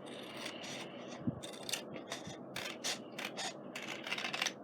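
Scissors cutting through a sheet of scrapbook paper in a series of irregular snips as the excess is trimmed off.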